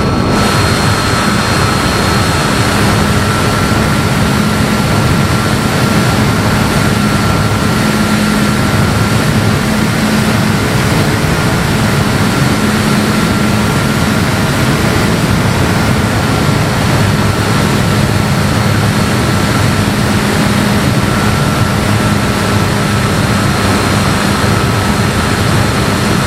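Electric motor and propeller of a Bird of Time RC sailplane running at a steady throttle, heard through the plane's onboard camera: a steady high whine over loud wind and prop rush. The motor has just spun up.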